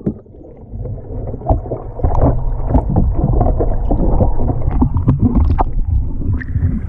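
Pool water splashing and sloshing around a kayak and paddle in irregular strokes, over a low muffled rumble.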